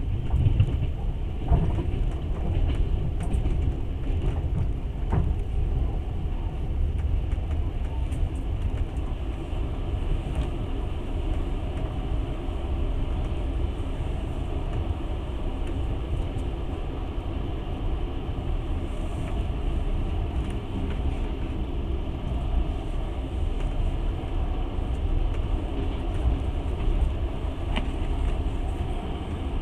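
Passenger train running along the line, heard from inside the carriage: a steady low rumble of wheels on rails, with a few sharp knocks in the first few seconds and one more near the end.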